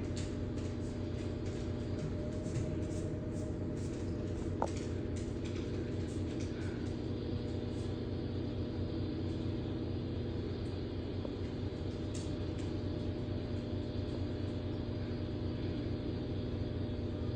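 Steady low mechanical hum and rumble, with faint scattered ticks in the first several seconds.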